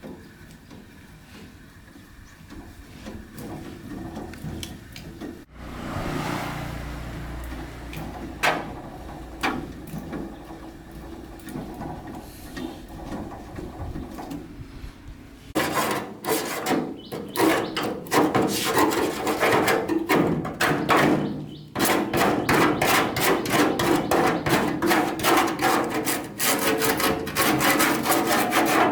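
Scattered knocks, then about halfway through a hand tool starts rasping back and forth on a part in rapid, even strokes, several a second, like filing or scraping during a repair.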